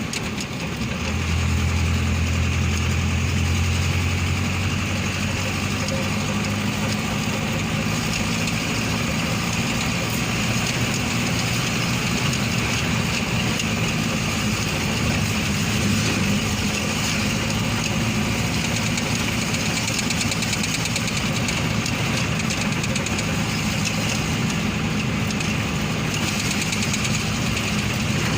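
A vehicle engine running steadily while driving, with a strong low hum in the first few seconds.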